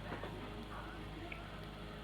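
Quiet room tone with a steady low electrical hum and no distinct sound event.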